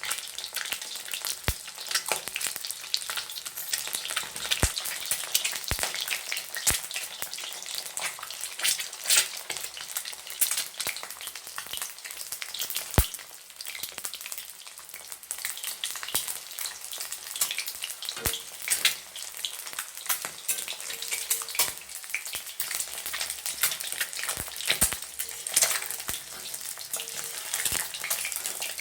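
Whole boiled eggs frying in hot mustard oil in a kadhai: steady sizzling and dense crackling spatter. A few sharp knocks stand out now and then, most clearly about 13 seconds in.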